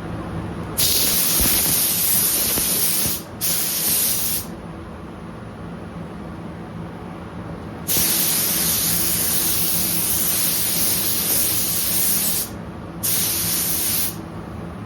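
Paint spray gun hissing in four trigger pulls as it sprays blending solvent with the fluid needle nearly closed, so the sound is mostly air: a short pair of bursts about a second in, then a long burst of about four and a half seconds and a shorter one near the end. A steady low hum runs underneath.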